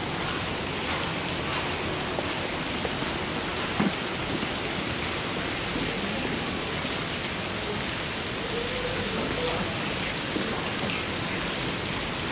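Steady rain falling, an even hiss throughout, with one short tick about four seconds in.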